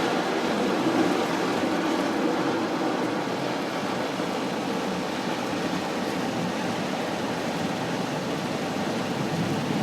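Automatic car wash machinery running, heard from inside the car: a steady rushing noise with no breaks.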